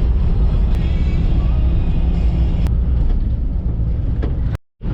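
A steady low engine rumble, cut off abruptly by a brief total dropout near the end.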